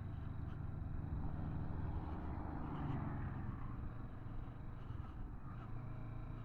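Kawasaki Vulcan S 650's parallel-twin engine running steadily under wind and road noise as the bike slows, the rush easing off over the last few seconds.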